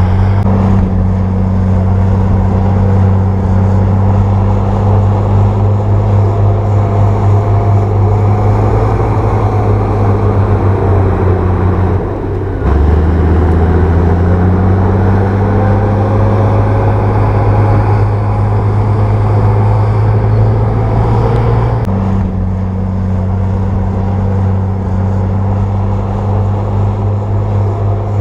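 Crawler bulldozer's diesel engine running steadily under load. Its note drops out briefly about twelve seconds in, comes back lower and climbs over a couple of seconds, and shifts again about twenty-two seconds in.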